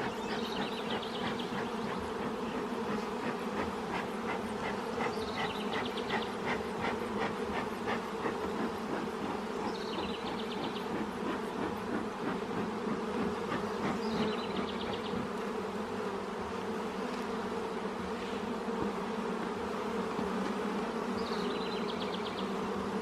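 Honey bee colony buzzing steadily from an opened hive, a dense, even hum of many bees. A short high trill comes back about every four to five seconds over the hum.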